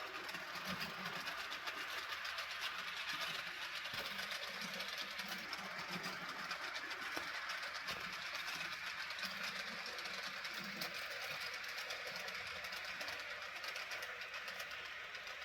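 Piko G 1206 model diesel locomotive running along the track: a steady whir from its motor and wheels on the rails.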